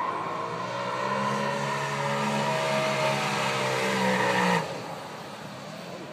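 BMW sedan engine held at high revs while being driven hard on a wet track, with a hiss over it; the engine note rises slightly and falls, then cuts off abruptly about four and a half seconds in as the throttle is lifted, leaving a quieter engine sound.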